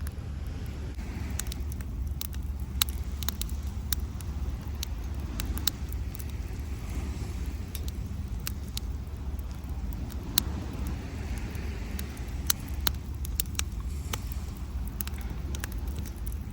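Wood campfire crackling with scattered sharp pops over the steady low rumble of surf, with waves washing up the beach every few seconds.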